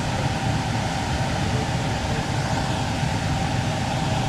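Package air-conditioning unit running: a steady rush of fan air over a low motor and compressor hum, with a faint steady whine.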